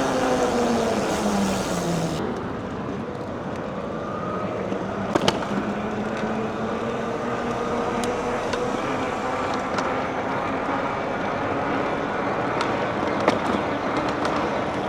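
Riding noise on a moving e-bike: tyre and wind rush with a motor hum. The hum drops in pitch over the first two seconds, then holds steady and slowly climbs. There are a couple of sharp clicks, about five seconds in and near the end.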